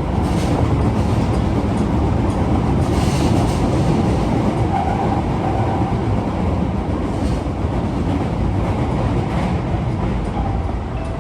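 Osaka Metro 22 series subway train running at speed: a steady low rumble with a few sharp clicks of the wheels over rail joints.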